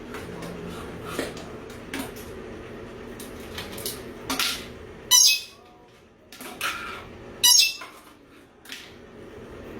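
A pet bird squawking: two loud, shrill squawks about five and seven and a half seconds in, with softer chirps and squeaks between them.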